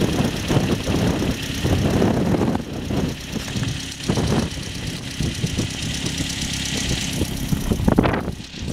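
Modified Toyota Starlet Glanza's turbocharged four-cylinder engine idling with an uneven, lumpy beat and a few brief swells.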